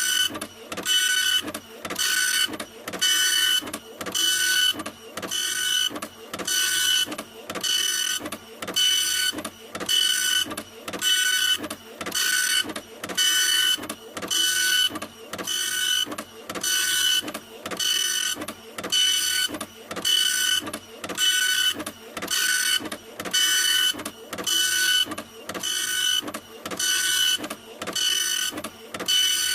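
Printer running continuously, its print pass repeating about once a second, each pass carrying a high mechanical whine.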